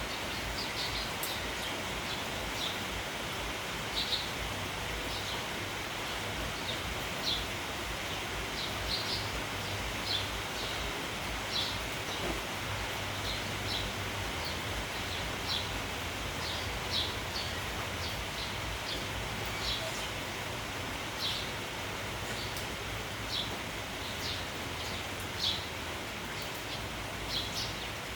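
Steady rain with sparrows chirping, short sharp chirps about once a second over the rain's even hiss.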